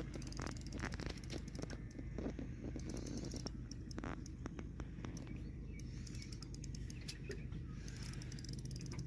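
Fishing reel being worked while playing a hooked bass: irregular mechanical clicks and scrapes, over a steady low hum.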